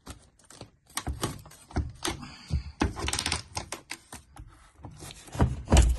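Irregular clicks, knocks and rustles of a new washing machine being unpacked and handled, with a heavier knock near the end.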